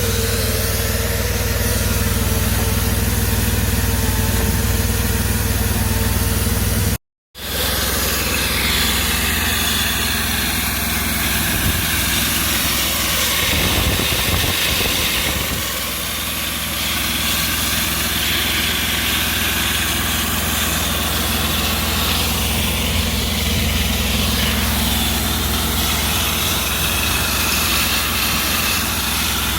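An engine running steadily at a constant speed. It breaks off for a split second about seven seconds in, then resumes with a slightly changed tone.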